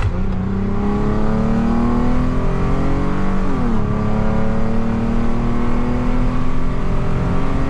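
Lexus IS250's 2.5-litre V6 accelerating hard under its new ECU tune, the engine note rising steadily, dropping abruptly at an upshift about three and a half seconds in, then climbing again in the next gear.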